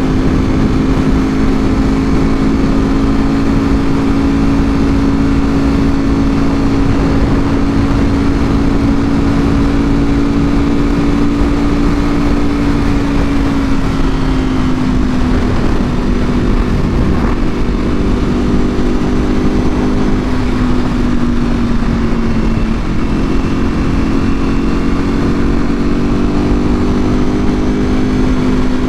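Ducati Panigale V4R's V4 engine through a full Akrapovic exhaust, running at a steady cruise with one held note that eases slightly about halfway and again about two-thirds of the way in before steadying, over a constant rushing noise.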